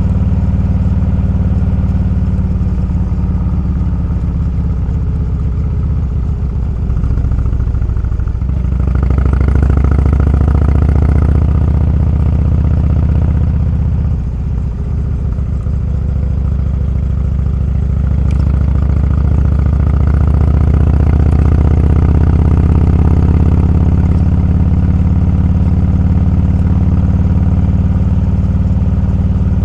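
Motorcycle engine running at road speed, easing off briefly about halfway through and then pulling harder again.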